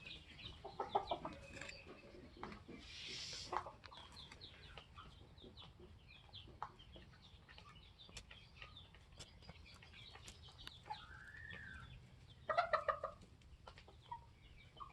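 A flock of Polish chickens clucking and chirping in many short calls, with a louder burst of calls near the end.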